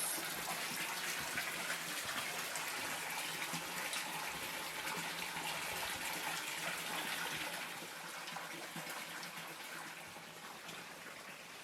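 Hot spring water pouring steadily into a soaking pool, a continuous splashing rush that grows a little quieter in the last few seconds.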